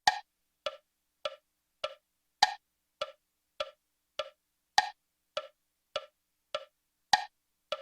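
Metronome click track counting in at about 100 beats a minute: short woodblock-like clicks, the first of every four higher and louder.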